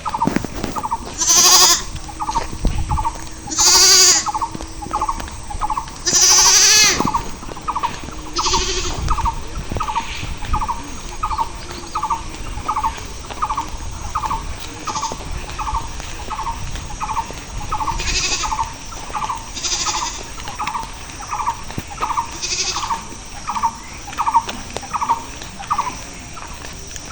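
Goats bleating: four loud, quavering bleats in the first seven seconds, then a few fainter ones later. Under them a short, chirping note repeats about twice a second, stopping shortly before the end.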